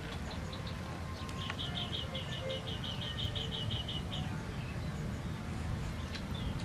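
A bird calling in the background: a quick run of about fourteen short, high, evenly repeated notes, some five a second, lasting under three seconds, over a steady low rumble.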